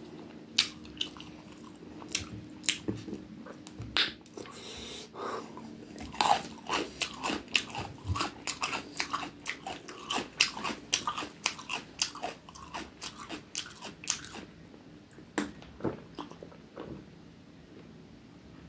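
Close-up mouth sounds of a person chewing and crunching food: many short, wet clicks that come thickest in the middle and thin out towards the end.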